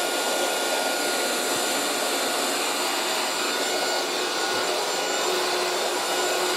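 A 1980s Moulinex 237/320 handheld vacuum cleaner running steadily as it sucks at debris on the floor. Its motor is fairly quiet and sounds like an electric whisk, and a low hum joins in about five seconds in.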